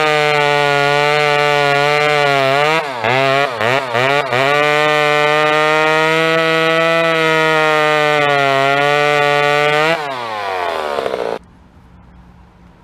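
Two-stroke chainsaw running at high revs, with a few quick dips in speed a few seconds in. Near the end the revs fall away and the engine stops abruptly.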